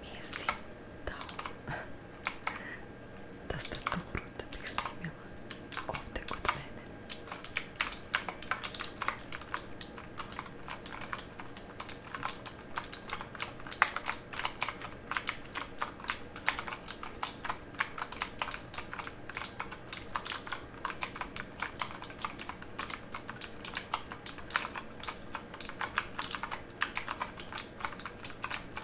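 Mechanical keyboard being typed on: scattered key clicks for the first several seconds, then fast, continuous typing from about seven seconds in.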